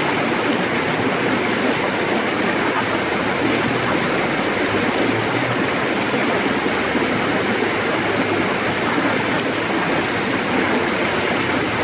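River water rushing steadily over rocks, a dense even flow.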